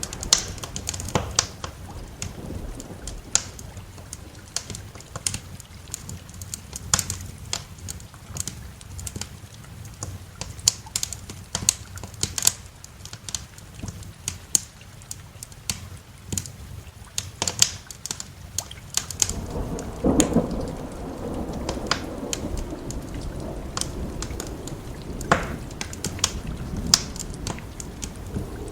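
Wood fire crackling, with sharp pops scattered throughout, over steady rain. A roll of thunder swells up about twenty seconds in and fades slowly.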